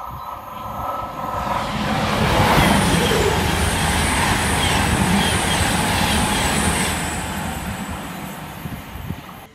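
Class 390 Pendolino electric train passing at speed: a rumble and rush of wheels and air that swells over the first two seconds, stays loud for several seconds, then fades as it goes away.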